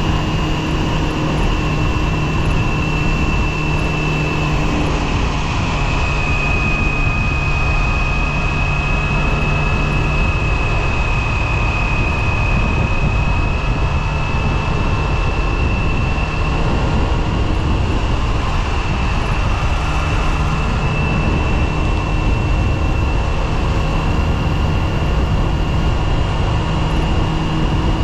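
Yamaha FZR250's inline-four engine running at a steady speed on the move, with a high whine that holds nearly the same pitch, under a constant rush of wind noise.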